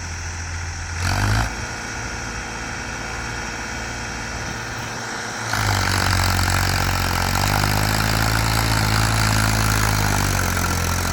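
A vehicle engine running steadily. About halfway through, a louder engine comes in and revs, its pitch rising and then falling again, as if working under load.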